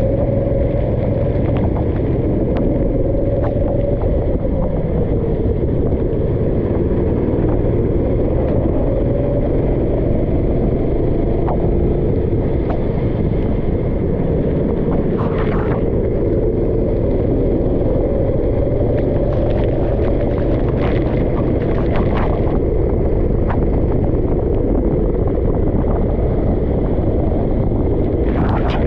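Go-kart engine running steadily under way, its note wavering slightly, over a heavy low rumble, with a few brief knocks about halfway and again a little later.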